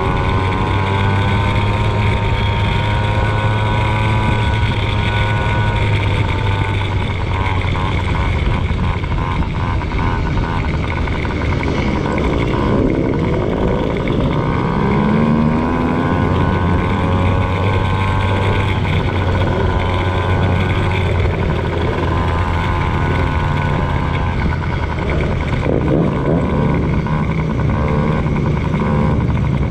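Motocross dirt bike engine running hard, its revs rising and falling continuously as it is ridden.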